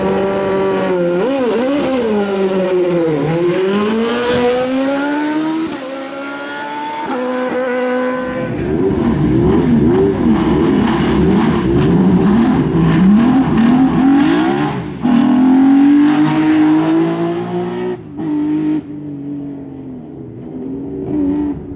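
Hill-climb race car engine revving up and down at the start line, then pulling away hard with sudden pitch drops that sound like gear changes, and fading as the car leaves.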